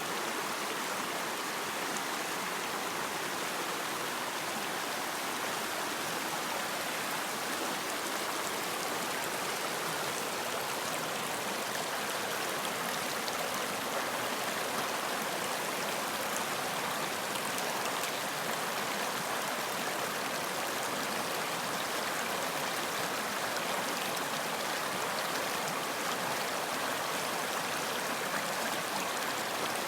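Running water, a steady rushing stream flowing, with fine splashing and no change throughout.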